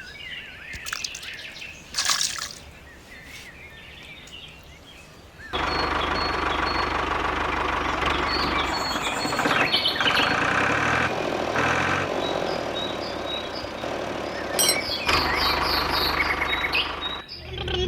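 Birds chirping faintly, then at about five and a half seconds an abrupt cut to a much louder steady running noise from the diesel engine and water pump setup, which stops suddenly near the end.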